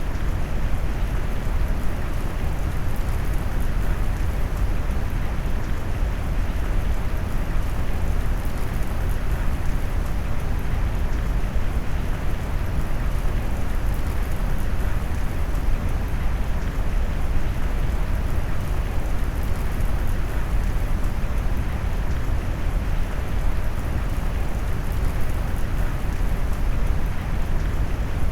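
Steady rain mixed with deep brown noise, its weight in a low, warm rumble, even throughout with no single drops or thunder standing out.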